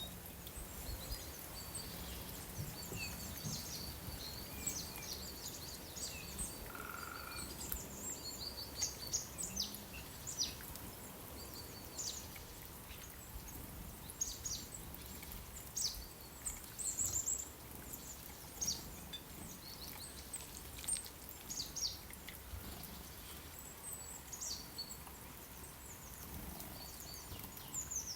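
Small songbirds chirping, with many short high notes scattered throughout, over a low steady background hiss of outdoor ambience.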